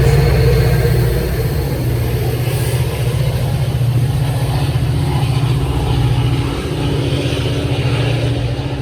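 Diesel-powered train passing close by, its engine making a loud, steady low drone that eases off slightly about a second in.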